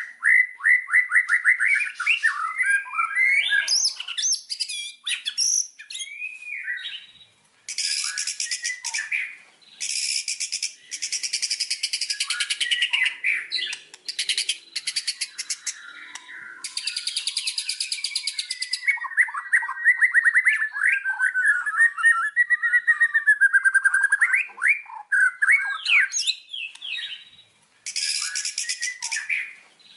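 White-rumped shama (murai batu) singing: varied whistled phrases and pitch glides, broken several times by long runs of very fast repeated notes.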